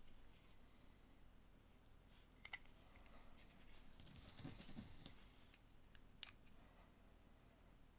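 Faint handling of small plastic LEGO pieces, with light rustling and a few sharp clicks, the clearest about two and a half and six seconds in.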